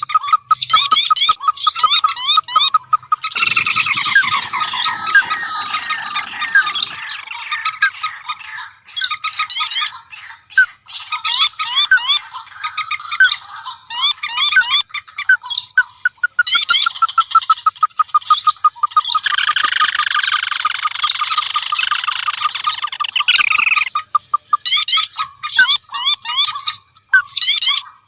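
Bird-lure recording of combined marsh and paddy-field bird calls, rails and waterhens among them: fast series of sharp repeated notes, with two longer stretches where several calls overlap into a dense chatter.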